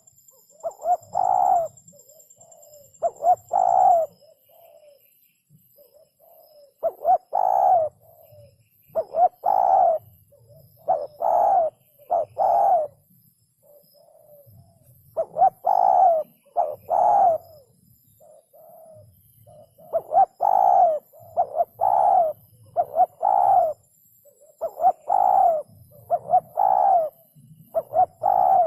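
Spotted dove cooing its song over and over: short groups of two or three mellow coos, one group every two to four seconds.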